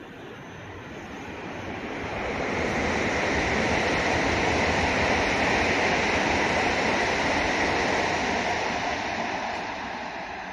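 Electric train running past on the tracks: a rushing rumble of wheels and motors that swells over about three seconds, holds loud, then fades away near the end.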